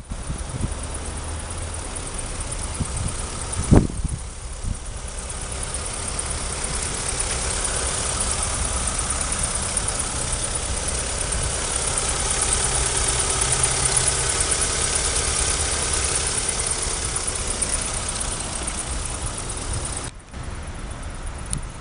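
Mitsubishi Lancer idling with a steady hiss over a low rumble, and one sharp knock about four seconds in.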